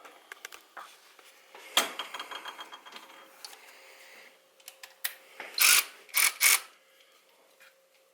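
Ratchet wrench clicking in a fast run of ticks as a bolt is worked with a socket, followed near the end by three short loud metallic noises.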